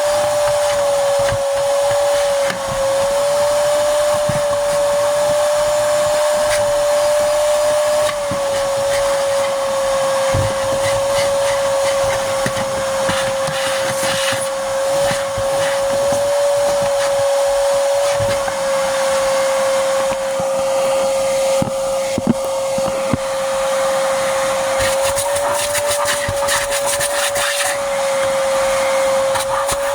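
Vacuum cleaner running with a steady, high motor whine over a rushing hiss. Its pitch drops slightly about eight seconds in and rises again near the end, with a couple of sharp ticks a little past twenty seconds.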